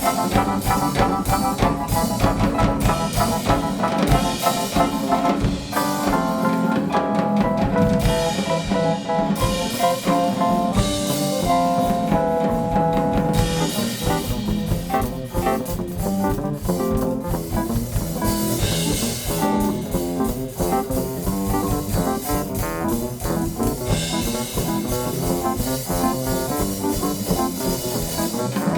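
Live band playing an upbeat jazz groove: brass horns over a drum kit.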